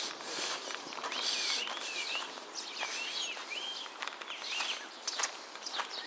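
Birds calling over and over: short, curving whistled calls about once a second, with footsteps.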